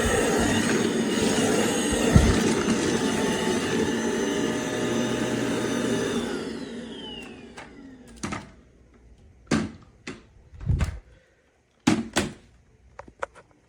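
Tineco Pure ONE S11 cordless stick vacuum running steadily with a motor whine, then switched off about six seconds in, its motor winding down with a falling whine. A scattering of sharp clicks and knocks follows in the last few seconds.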